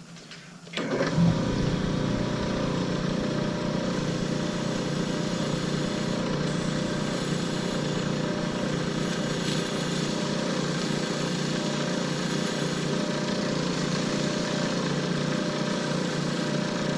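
Lathe switched on about a second in, its motor coming up to speed and then running steadily.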